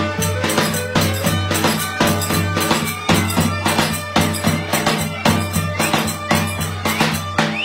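Traditional Turkish folk dance music played live: a bagpipe-like reed instrument over a steady drone, with a drum struck about twice a second.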